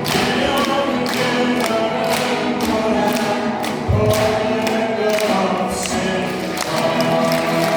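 Live singing by a group of voices over accompaniment with a steady beat of about two strokes a second. A single low thump comes about four seconds in.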